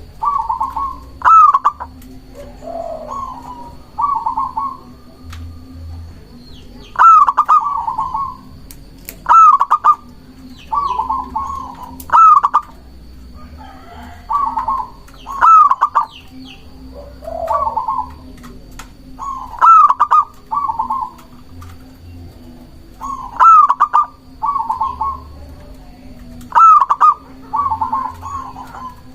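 Zebra dove (perkutut) cooing in repeated phrases: each a sharp, rising-and-falling opening note followed by two or three lower, rolling coos, with a new phrase every one to three seconds.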